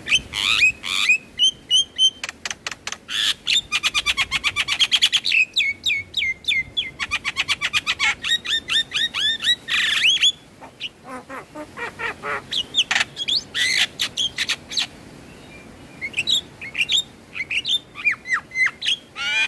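Javan myna (jalak kebo) singing: fast runs of sharp clicking notes mixed with quick downslurred whistles and chirps, with a quieter stretch of scattered lower notes past the middle before the chirping picks up again.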